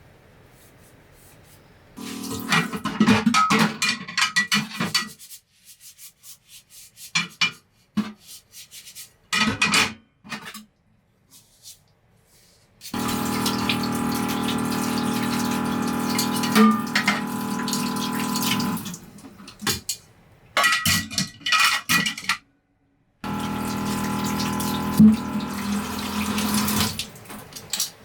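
Water running in three spells that start and stop abruptly, with short clicks and knocks in the pauses between them.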